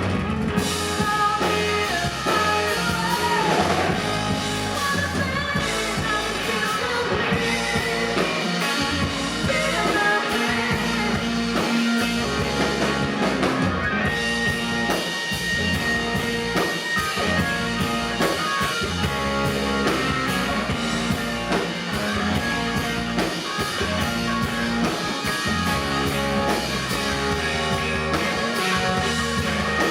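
A rock band playing live: singing over electric guitar and a drum kit, with a steady beat.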